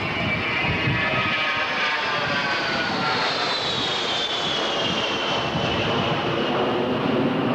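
Lockheed C-141 Starlifter's four turbofan engines at high power as the jet passes and climbs away: a steady loud roar with a high whine that falls slowly in pitch.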